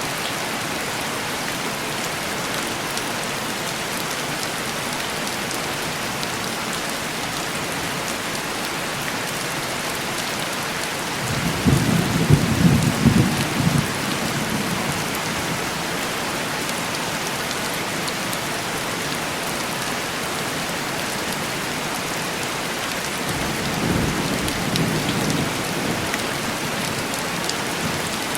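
Steady heavy rain hissing on window glass. Distant thunder rumbles twice, a louder roll about a third of the way in and a softer one near the end.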